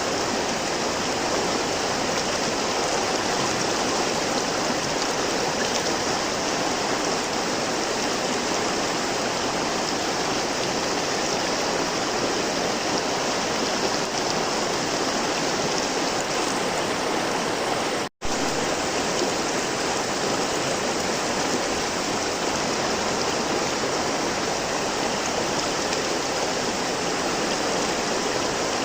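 River water flowing steadily, an even, unbroken rush of water. The sound drops out for an instant about two-thirds of the way through, then carries on unchanged.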